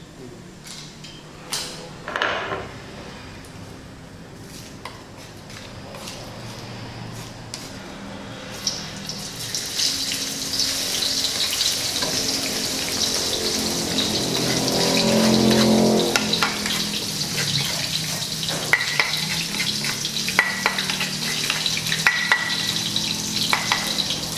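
Light knocks and handling sounds, then ground spice paste starts sizzling as it goes into hot oil in a wok, about a third of the way in, and keeps sizzling. Near the end, sharp ticks from a wooden spatula scraping and knocking paste off a stone mortar over the wok.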